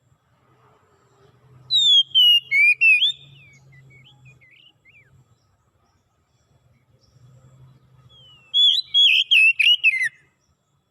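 A songbird singing two short, loud whistled phrases about six seconds apart, each a run of quick notes sliding downward, with softer chirps after the first.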